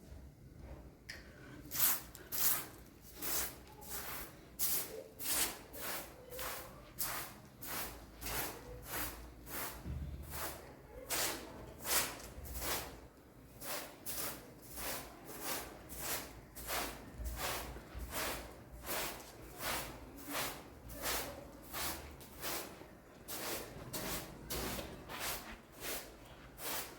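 Footsteps crunching through snow at a steady walking pace, about two steps a second, starting about a second and a half in.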